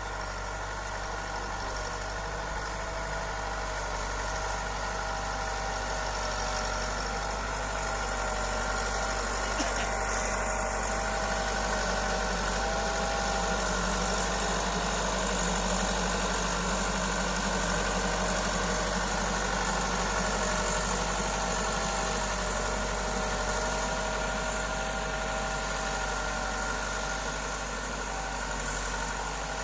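Tractor diesel engine running steadily at an even speed: a constant low hum with a steady tone above it.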